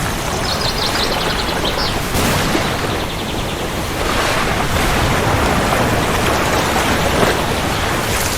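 Steady heavy rain, a dense even hiss with a low rumble underneath. It gets slightly louder about four seconds in. A brief, high, rapid trill sounds in the first two seconds.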